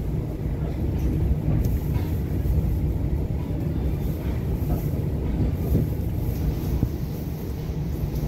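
Long Island Rail Road diesel train, hauled by a DM30AC dual-mode locomotive, heard from on board as a steady low rumble with a few faint knocks.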